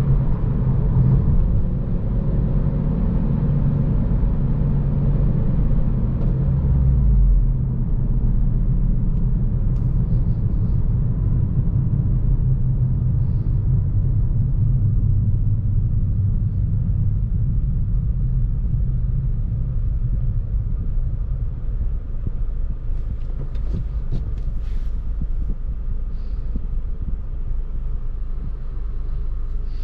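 2014 Honda Civic Si's 2.4-litre four-cylinder engine running under way, with road rumble, heard from inside the car. The engine note steps down about seven seconds in, then the car cruises with a steady drone.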